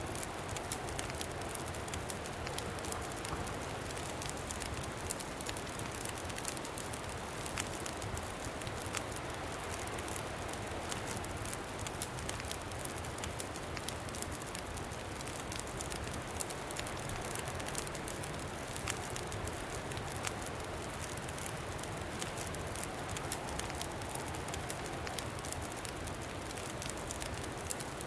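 Campfire crackling with frequent small pops over a steady rush and low rumble of wind.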